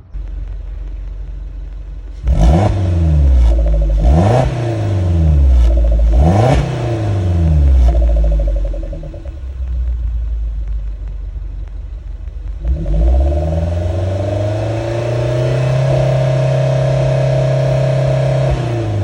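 Suzuki Jimny Sierra's four-cylinder engine heard through an aftermarket DUSSEL muffler: idling, blipped three times in quick succession, then idling again before it is revved up about two-thirds of the way in, held at high revs for some six seconds and dropped back to idle near the end.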